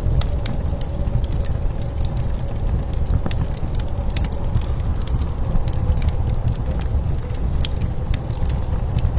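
Wood fire crackling with frequent irregular sharp pops, over a steady low rumble of blizzard wind with a faint steady whistle in it.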